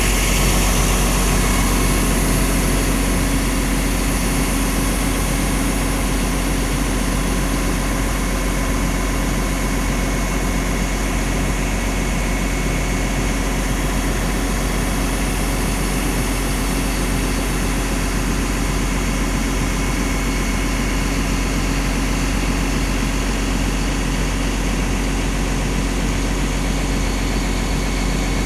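Cummins diesel engine of a Liugong CLG922E crawler excavator running steadily.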